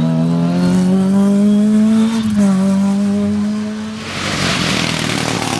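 Rally car engine under hard acceleration, the revs climbing steadily with a brief dip about two seconds in. About four seconds in the engine note gives way to a loud rushing noise.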